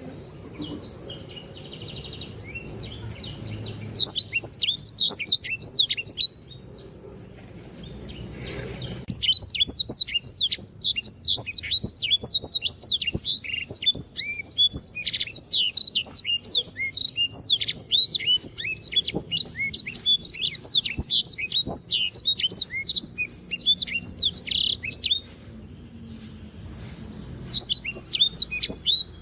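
Sanger songbird in full song, a rapid chattering run of high, quick down-sweeping chirps and trills. It sings in three bouts: briefly about four seconds in, a long unbroken stretch from about nine to twenty-five seconds, and again near the end.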